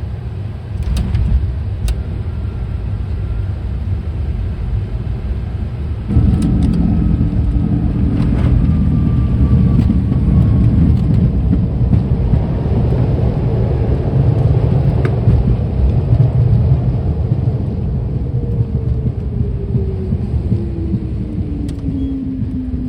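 Private jet's touchdown and landing rollout heard from the cockpit: a loud steady rumble of the wheels and airframe on the runway. About six seconds in, the jet engines' noise jumps up sharply and holds. Near the end a falling whine follows as the engines spool down.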